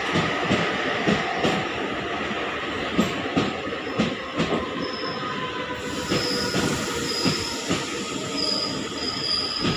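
Passenger coaches of an arriving express train rolling past a platform: a steady rumble with wheels clicking over rail joints about twice a second. From about halfway in there are short, repeated high-pitched squeals as the train brakes.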